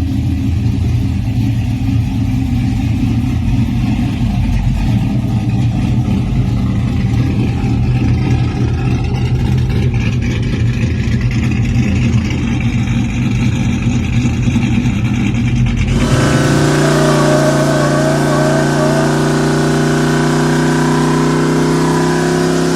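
Loud pickup truck engines running through their exhausts, a rough low rumble. About two-thirds of the way through it switches abruptly to a steadier engine drone with a clear hum.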